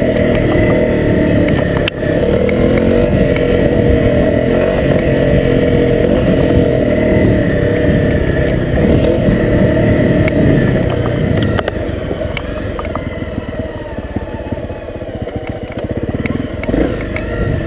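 Honda CRF250L's single-cylinder four-stroke engine running under riding on a dirt trail, revving up and down, with scattered knocks and rattles. The engine eases to a quieter, lower note about two-thirds of the way through and picks up again near the end.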